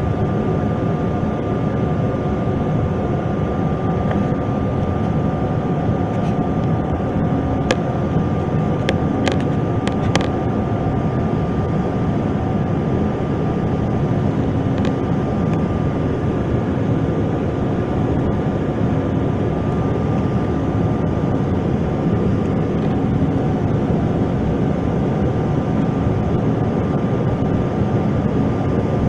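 Steady cabin noise of a Bombardier CRJ-900 regional jet in flight: the drone of its rear-mounted GE CF34 turbofans and airflow, with a constant hum and a thin steady tone. A few short clicks come about eight to ten seconds in.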